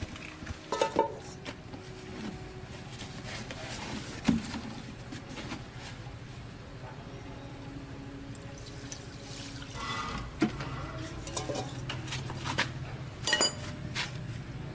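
Scattered clinks and knocks of metal parts and tools being handled, one strike about thirteen seconds in ringing briefly; a low steady hum joins about ten seconds in.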